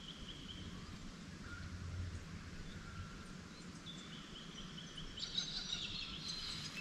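Faint birdsong: thin, drawn-out whistled notes, with a run of quick faint ticks near the end, over a low hum that fades after about two seconds.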